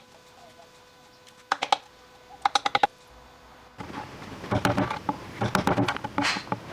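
Light, sharp knocks and taps on wood in quick runs: a short cluster of four or five about a second and a half in, another soon after, then denser, busier knocking and clatter from about four seconds on.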